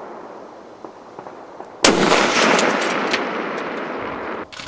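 A single sniper rifle shot about two seconds in, its report rolling and echoing away over the next two seconds or so.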